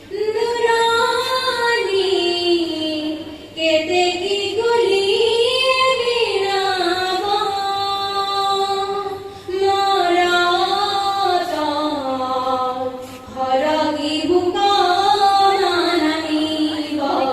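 Female voices singing a slow Assamese song in long, drawn-out melodic phrases, with short breaths about every four seconds.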